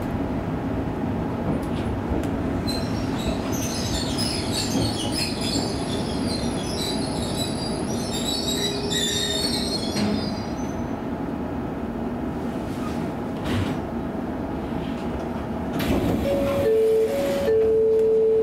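Electric commuter train running, heard from inside the passenger car, with the wheel flanges squealing high-pitched on a curve for several seconds early on. Near the end a steady two-pitch tone sounds.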